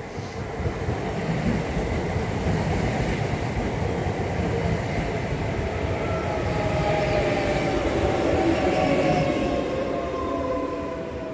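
Class 365 electric multiple unit passing close by on the main line. The rumble of wheels and running gear builds over the first second or so, and from about halfway a set of whines falls steadily in pitch as the unit goes past.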